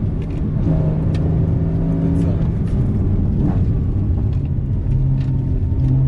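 Porsche Cayman GTS engine running under load, its note holding steady for a second or two and then shifting in pitch several times as the revs change.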